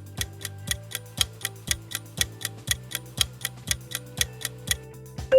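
Clock-ticking countdown sound effect, with sharp even ticks about four a second, over soft background music with low held tones: a quiz answer timer running.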